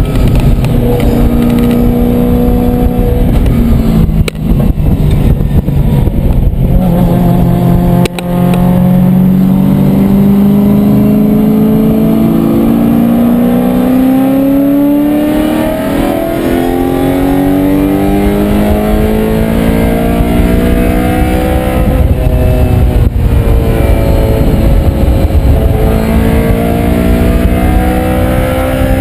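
Race-prepared BMW's engine heard from inside the caged cabin under hard acceleration on track: the revs climb in long pulls, broken by brief dips at gear changes, the clearest about eight seconds in.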